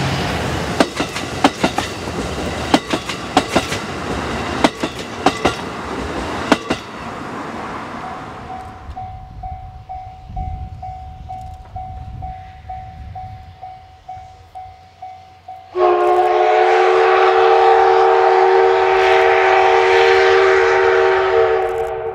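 Train wheels clicking over rail joints as the carriages run past, fading out after about seven seconds. A faint tone repeating about twice a second follows. About sixteen seconds in, a loud, long, multi-note whistle starts suddenly and holds steady; the video concerns the D51 200 steam locomotive, and this is most likely its steam whistle.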